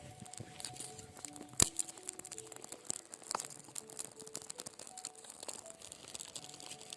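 Irregular crackling and sharp clicks, with one louder snap about a second and a half in, over quiet background music with a slow melody.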